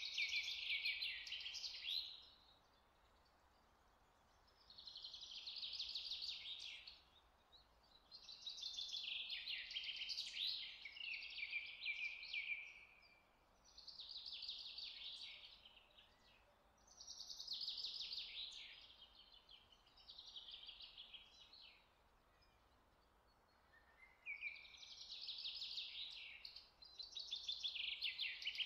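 A songbird singing: repeated high phrases of fast trilled notes, each lasting one to a few seconds, with short pauses between them.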